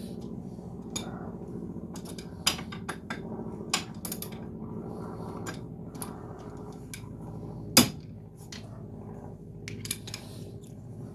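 Metal hand tools clinking and clanking as they are handled, a dozen or so separate knocks with one loud metallic clank about eight seconds in, over a steady low hum.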